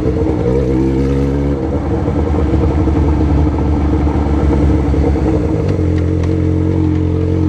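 Yamaha XJ6's 600 cc inline-four running through a 4-into-1 open exhaust while the bike is ridden at low speed. The engine note shifts about a second and a half in and settles to a steadier, lower tone near the end.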